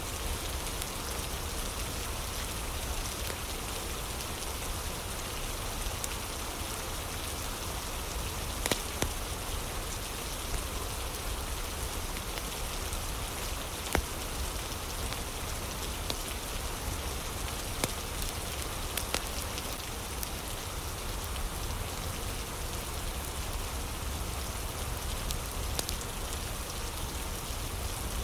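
Steady heavy rain, with a few sharp pops from a crackling wood fire scattered through it.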